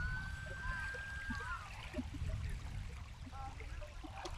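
Light water sounds of a kayak on a lake, over a steady low rumble. Near the start, a single whistled tone rises, holds for about a second and a half, and falls away.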